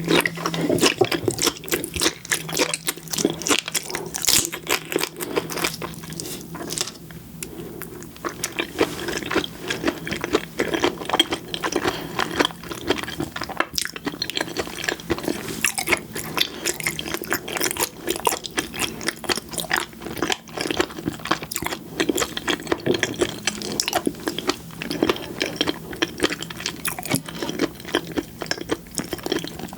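Close-miked chewing and biting of red shrimp and flying fish roe: a dense, irregular run of small wet clicks and crunches.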